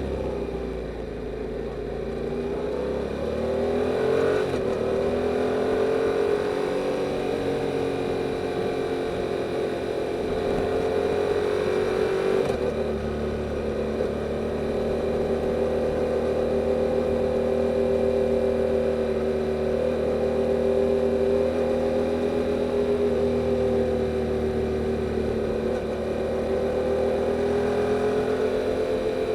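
A 2022 Yamaha R7's 689 cc parallel-twin engine through its stock exhaust, under way. The engine note rises over the first few seconds, changes abruptly about four seconds in and again about twelve seconds in, then holds at fairly steady revs.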